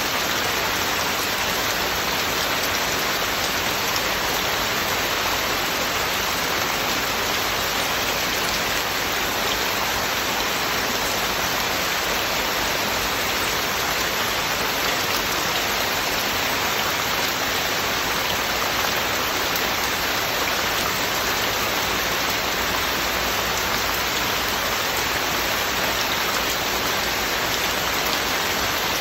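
Heavy rain falling steadily, a dense even hiss of drops with no thunder and no change in strength.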